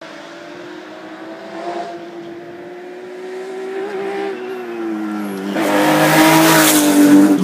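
Rally car engine approaching at speed and growing steadily louder, its note held high, then passing close with a loud rushing noise about five and a half seconds in.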